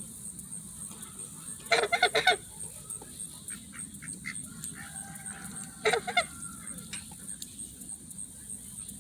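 Domestic geese honking: a quick run of about four loud honks about two seconds in, then two more near six seconds.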